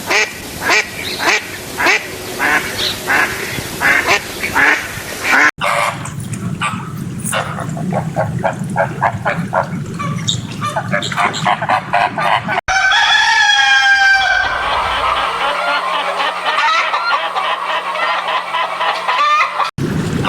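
Waterfowl honking and quacking, goose-like calls across several spliced clips. The cuts come at about five, twelve and nineteen seconds in. One clip opens with a call that falls in pitch, then runs into fast chatter.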